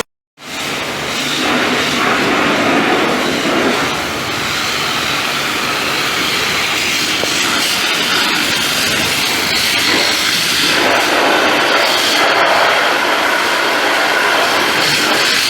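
High-pressure water spray from a pressure washer, a steady loud hiss. It drops out for a moment right at the start, then runs on evenly.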